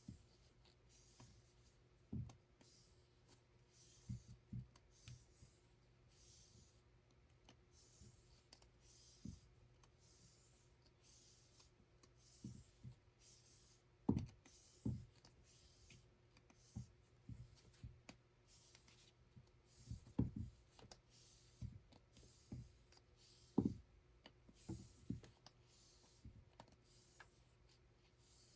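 Faint, irregular soft knocks and taps from a hand loom being worked, coming every second or few seconds, with a few louder thuds.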